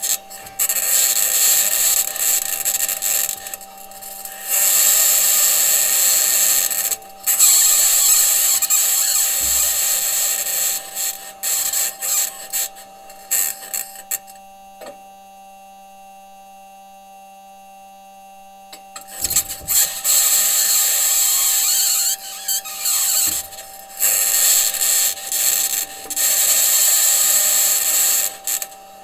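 Perseverance Mars rover's wheels and suspension grinding over rocky ground: a harsh, high-pitched scraping that comes in stop-start bouts over a steady low hum. About halfway through the scraping stops for roughly five seconds, leaving only the hum, then starts again.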